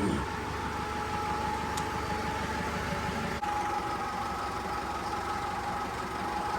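An engine idling steadily, with a steady whine over a low rumble.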